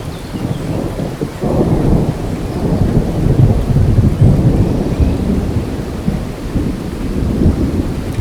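Steady heavy rain with a long roll of thunder that swells about a second and a half in and slowly fades.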